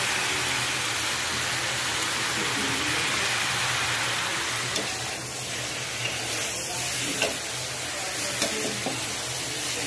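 Mushrooms and vegetables sizzling as they fry in a kadhai and are stirred with a perforated metal spatula. In the second half, a few sharp clicks of the spatula striking the pan.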